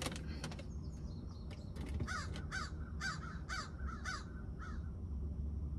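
A bird gives a quick series of about eight harsh caws, starting about two seconds in, with a few light clicks just before.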